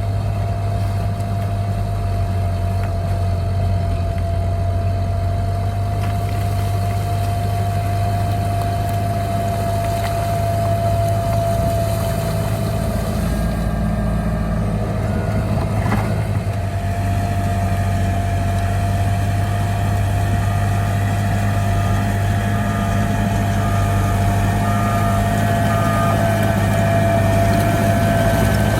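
Heavy diesel engine of a bulldozer running steadily, a deep drone with a steady high whine riding above it.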